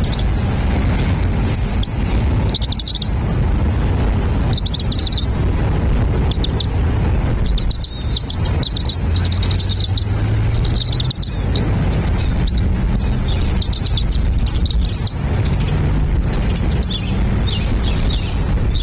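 Small birds chirping in short, repeated bursts of high notes, over a loud, steady low rumble.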